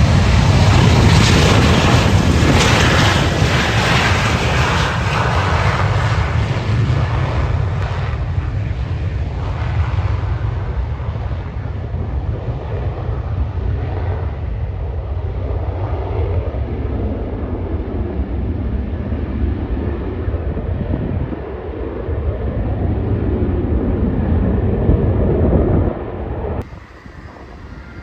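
Boeing 727-225F's three Pratt & Whitney JT8D low-bypass turbofans, a loud jet roar with deep rumble. It is harshest in the first few seconds, then grows duller and fades as the aircraft moves away, and drops off abruptly near the end.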